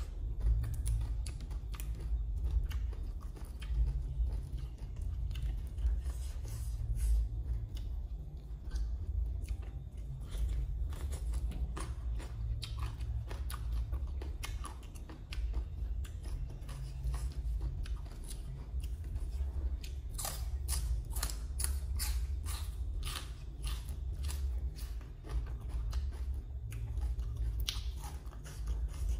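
Close-miked chewing and crunching of shredded green papaya salad and raw leafy greens, with many crisp snaps and crunches, thickest about two-thirds of the way through, over a steady low rumble.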